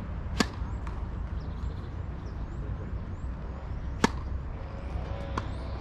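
Tennis ball struck sharply, two loud pops about three and a half seconds apart and a fainter knock near the end, over a steady low rumble.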